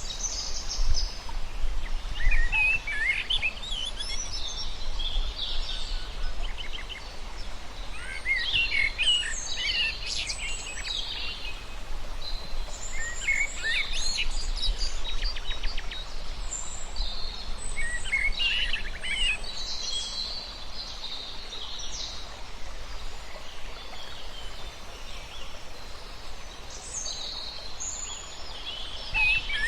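Many small birds chirping and trilling, several calls overlapping at once, over a low steady rumble.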